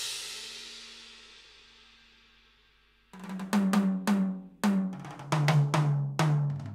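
Roland TD-17KVX electronic drum kit: a cymbal crash rings out and fades away over about two and a half seconds. After a moment of silence, a fast drum fill starts about three seconds in and steps down from higher to lower toms.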